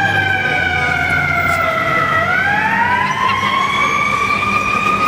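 A siren wailing: its pitch falls slowly for about two seconds, then rises again and levels off.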